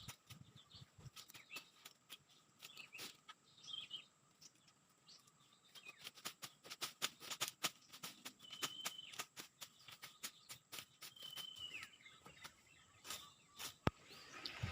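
Birds chirping: a few short calls and two brief held high notes, with many scattered sharp clicks and crackles throughout.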